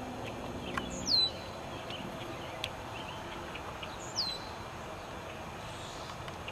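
A bird calling: a short, high whistle that drops steeply in pitch, twice, about three seconds apart, over a steady background noise.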